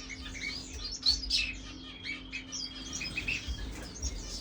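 Many small caged finches chirping, with short high calls overlapping one another throughout, over a steady low hum.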